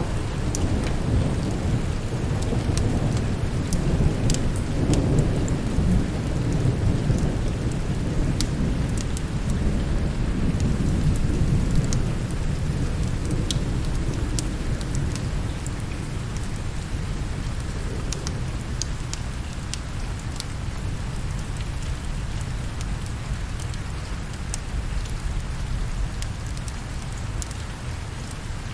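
Steady rain with a long, low roll of thunder that slowly fades over the first two thirds or so, and scattered sharp ticks and crackles throughout.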